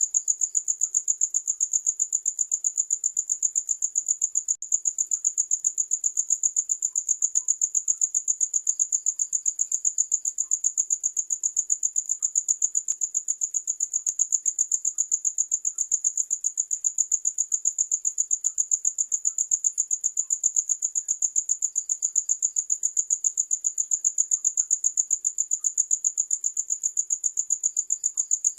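Crickets chirping steadily: a high-pitched, rapid, even pulse of chirps that goes on without a break.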